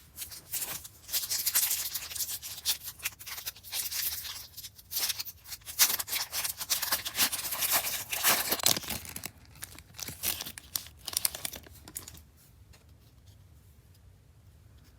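Trading card pack wrapper being torn open and crinkled, a run of crackling tears and rustles that stops about twelve seconds in.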